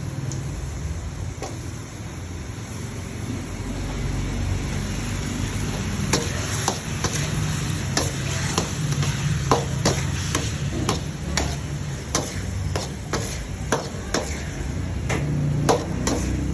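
Food frying in a pan while it is stirred with a utensil, which clicks and taps sharply against the pan many times from about six seconds in.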